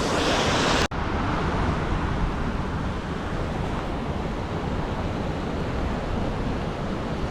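Steady rush of a waterfall's falling water, broken by a brief dropout about a second in.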